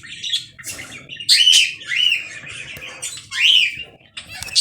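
Lovebirds (Agapornis) chattering: a rapid run of sharp, high chirps and squawky calls, several sliding up and down in pitch, loudest about a second and a half in and again at about three and a half seconds.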